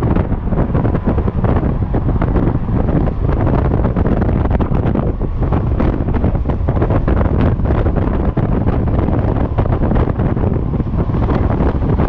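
Loud wind buffeting the microphone as a Yamaha XMAX scooter runs at freeway speed, a steady rush full of constant gusts that buries the scooter's own engine.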